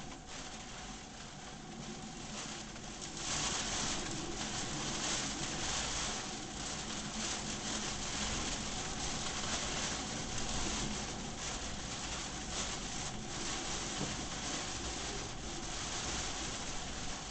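Heavy typhoon rain pouring down, a dense steady hiss that swells louder about three seconds in and keeps surging and easing.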